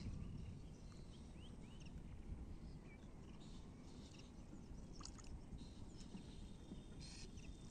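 Faint outdoor ambience: a low steady rumble with scattered short chirps of small birds, and a brief rapid chatter about seven seconds in.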